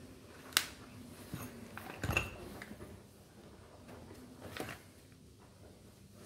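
Tools and parts clicking and knocking as a rotary hammer drill is being taken apart: a sharp click about half a second in, a small cluster of knocks around two seconds, and another knock later on, over a faint steady hum.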